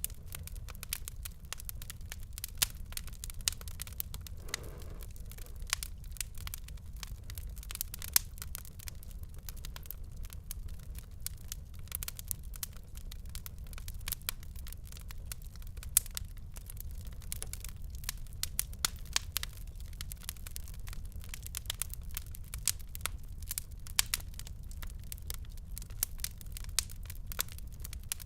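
Fire in a fireplace crackling: frequent irregular sharp pops and snaps over a low steady rumble of the flames.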